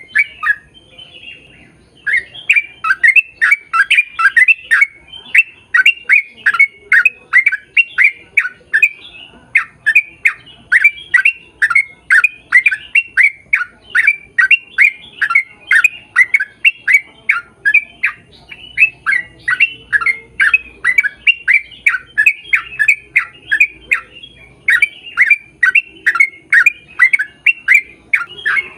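A bird calling loudly and close by: a long run of short, sharp, downward-sweeping calls, about three a second, broken by a few brief pauses.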